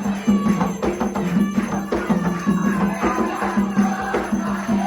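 Umbanda ceremonial percussion music: a steady beat of drum strokes with sharp wood-block-like clicks and a jingling shaker.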